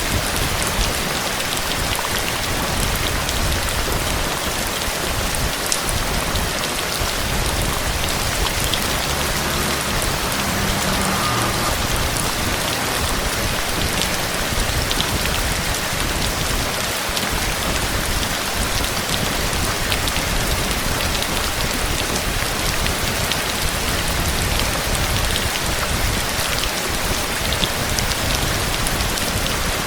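Steady, heavy rain falling on a surface: an even hiss with scattered sharper drop hits.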